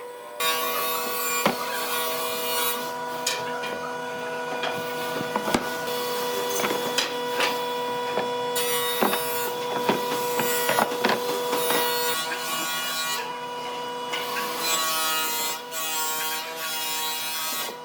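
A power tool's motor running with a steady whine while it cuts into wood, giving a rough scraping noise that starts about half a second in, with scattered clicks and knocks.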